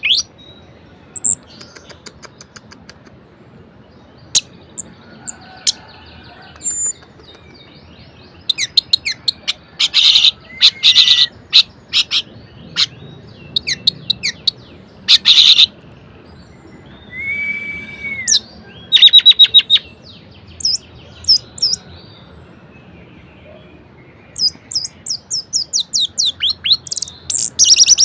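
Orange-headed thrush (anis merah) singing a varied, energetic song in separate phrases: rapid buzzy trills, a single short whistle, and a fast run of high notes near the end.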